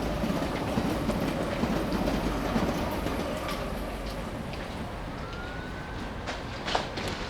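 A steady low rumble with scattered clicks and knocks, a faint rising whine coming in about five seconds in, and a sharper knock near the end.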